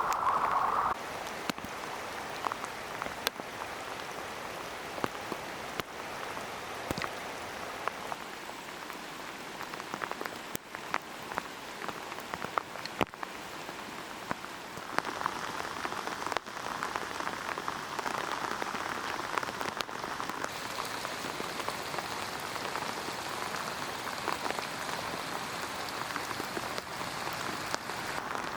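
Rain falling steadily, a dense hiss dotted with sharp clicks of individual drops striking close by. About halfway through the hiss gets brighter and fuller.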